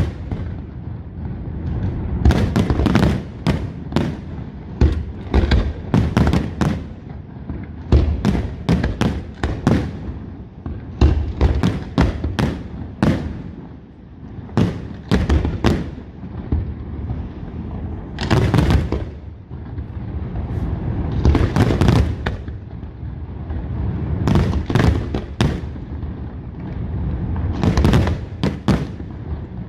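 Aerial fireworks shells bursting in quick irregular volleys of sharp bangs, with a continuous low rumble of echoing reports between them.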